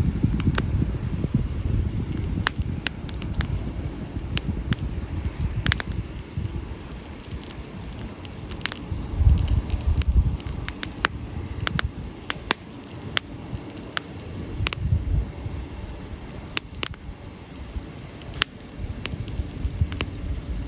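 Burning wood crackling outdoors, with sharp irregular pops over a low, fluttering rumble.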